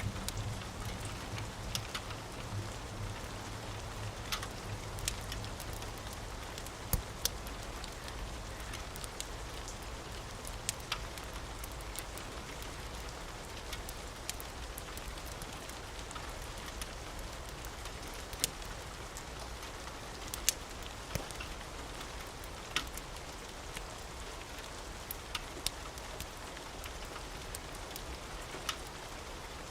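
Steady rain falling on a roof, with scattered sharp crackles and pops from a wood fire. A low rumble of thunder fades out over the first few seconds.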